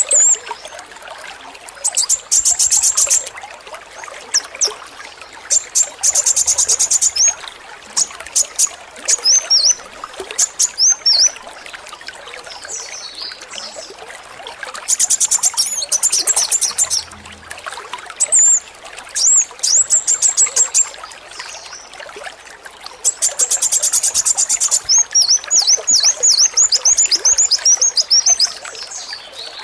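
A male kolibri wulung (a sunbird) singing in loud high-pitched bursts. The song alternates very fast rattling trills with runs of quick down-swooping chirps. Behind it, water trickles steadily.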